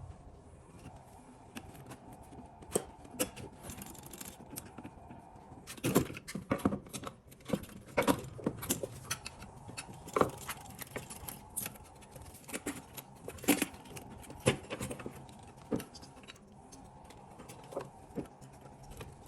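Irregular metallic clicks, clinks and knocks of small parts and tools being handled while the old fuel pump is worked free of its assembly. The clinks come thickest in the middle of the stretch.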